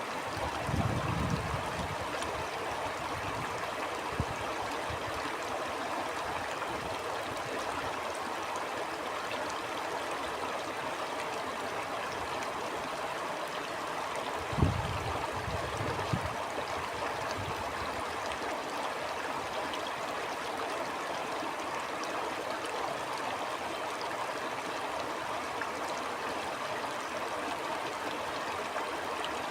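A stream flowing steadily with an even rushing babble. Short low rumbles of wind gusting on the microphone come about a second in and again about halfway through.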